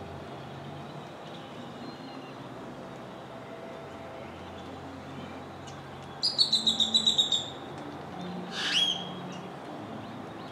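A bird calling: a quick run of about ten sharp chirps lasting just over a second, about six seconds in, then a single louder sweeping squawk about two seconds later, over a steady low background rumble.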